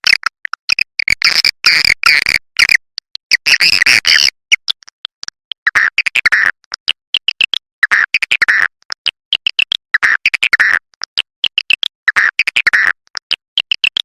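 Swiftlet calls: rapid, buzzy twittering chirps in dense clusters, broken again and again by sudden cut-off silences, as in an edited lure recording. It is a call-in (panggil) track, played in swiftlet houses to draw the birds in.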